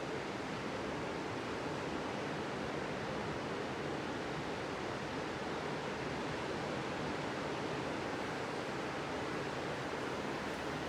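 Ocean surf at a sandy beach: a steady, even wash of breaking waves.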